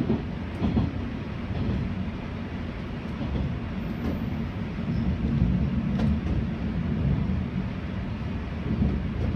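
Running noise of a 485-series electric train heard inside the driver's cab: a steady low rumble of wheels and motors on the rails, with a few sharp knocks.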